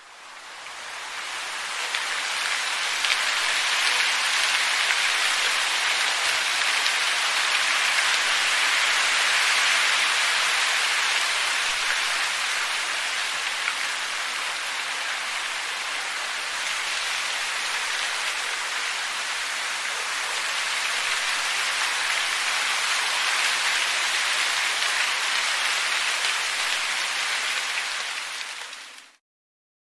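Storm sound effect: a steady, even hiss like heavy rain, with little low rumble, fading in at the start and fading out near the end.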